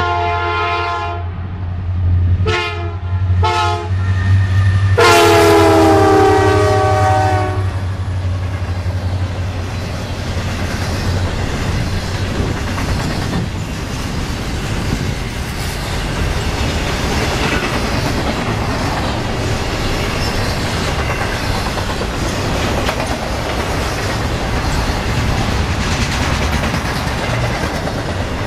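Diesel freight locomotive's horn blowing four blasts: a long one, two short, then a longer one, over the low drone of the engines. Then the steady rumble and clickety-clack of the intermodal train's container cars rolling past.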